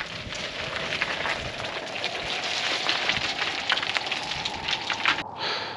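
Blizzard noise: a dense crackling hiss of wind-driven snow against the microphone, changing abruptly near the end.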